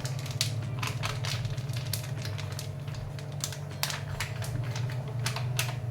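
Scattered light clicks and taps of a utensil and bowl as flour is put into the bowl, over a steady low hum.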